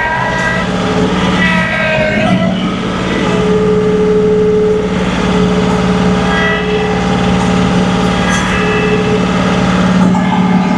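John Deere 2038R compact tractor's three-cylinder diesel running steadily under load while pushing snow, with higher whining tones that come and go over the engine note.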